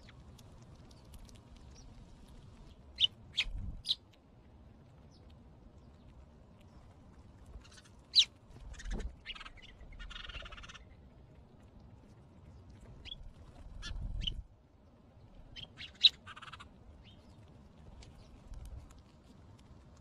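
Short, sharp bird chirps and clicks from small birds feeding at a seed dish, coming in scattered clusters of two or three, with a brief rustle about ten seconds in. A low rumble swells and fades a few times underneath.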